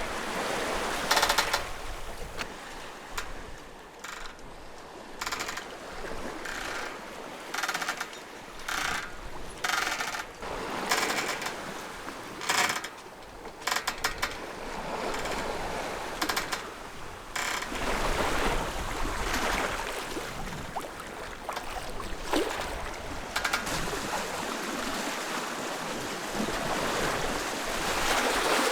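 Sea water rushing and splashing along a sailing yacht's hull under way, with irregular splashes and knocks through the first half and a steadier rush later on.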